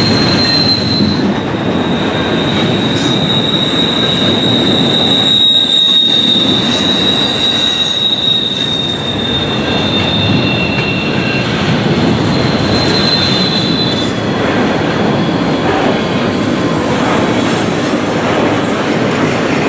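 Freight cars of a long intermodal train rolling past with a steady rumble of wheels on rail. High-pitched wheel squeal comes and goes over it, rising and fading several times.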